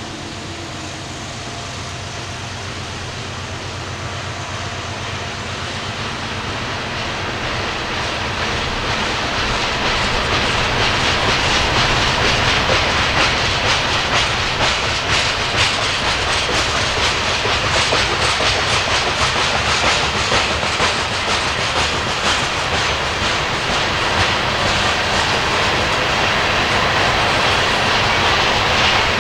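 Coal train's hopper cars rolling past, steel wheels clicking and rumbling on the rails. It grows louder over the first ten seconds or so, then holds steady.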